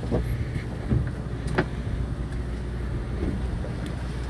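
Fishing boat's motor running with a steady low hum, and a few short sharp knocks on deck, the loudest about a second and a half in.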